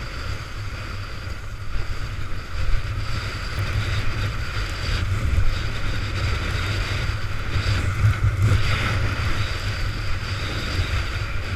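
Storm-force wind buffeting the microphone in a steady low rumble, over the hiss of wind-blown spray and rough sea as a windsurfer sails through it.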